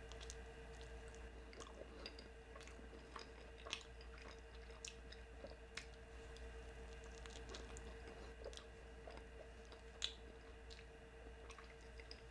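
Close-miked chewing of a bean and cheese burrito: soft, faint wet mouth clicks and squishes at irregular moments, with a slightly sharper click about ten seconds in.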